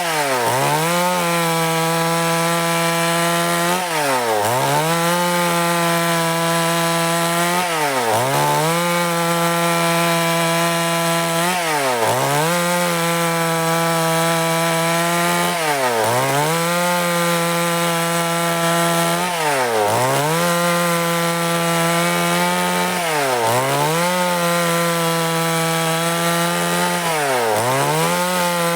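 Stihl MS 382 two-stroke chainsaw running at high revs while cutting along a log to saw boards. Its pitch dips briefly and recovers about every four seconds.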